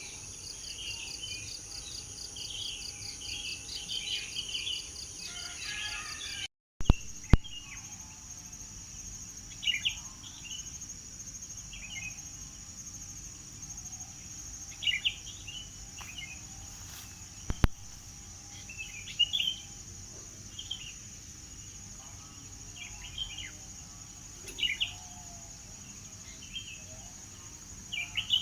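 Birds chirping in short, repeated phrases over a steady high-pitched insect drone. Everything cuts out for a moment about a quarter of the way in, followed by two sharp clicks, and the drone comes back at a slightly different pitch.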